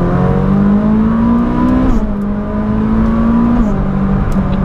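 Ferrari 458 Speciale's naturally aspirated V8 pulling hard, heard from inside the cabin. Its pitch climbs under acceleration and drops sharply about two seconds in and again near the end as the gearbox shifts up.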